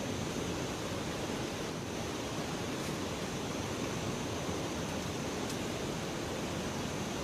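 Steady rushing noise of flowing river water, with a couple of faint clicks.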